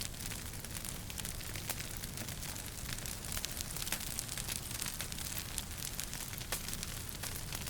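Fire crackling in a fireplace: frequent small pops and snaps over a steady low rumble and hiss.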